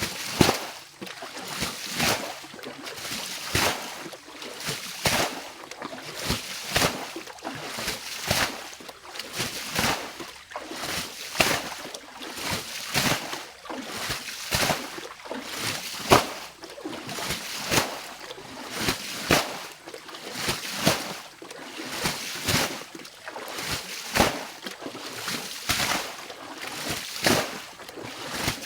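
Water splashing and sloshing in a quick, uneven rhythm of about one to two splashes a second, as a pond or ditch is bailed out by hand, scoop after scoop.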